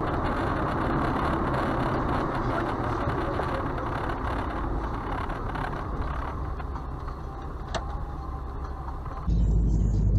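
Steady car driving noise, road and engine together; about nine seconds in it changes abruptly to a louder, deeper rumble.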